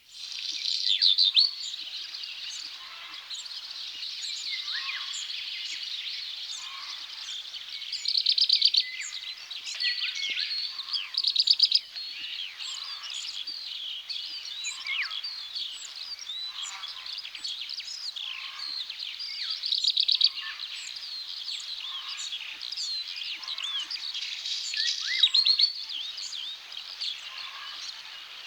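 Black redstart singing its short song phrase over and over, a few seconds apart, over a steady chorus of other small birds chirping.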